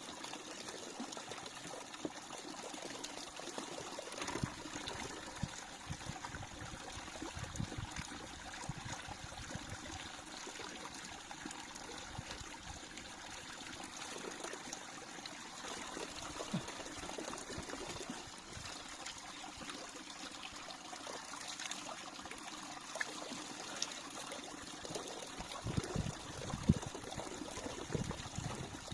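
Water trickling and running steadily, with a few low thumps near the end.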